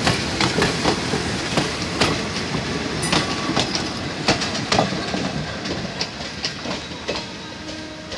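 Passenger train coaches rolling past close by, their wheels clacking sharply and irregularly over the rail joints over a steady rumble. The sound fades steadily toward the end as the train draws away.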